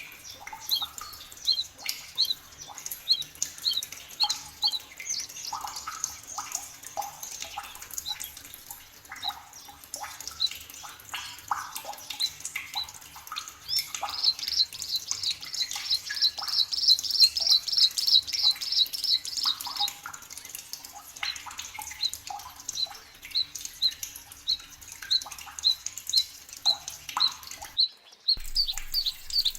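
Several forest birds singing together. One repeats a short high chirp about once a second, and another gives a loud, rapid trill of many notes lasting about six seconds midway. Lower calls are scattered throughout, and the sound cuts out for a moment near the end.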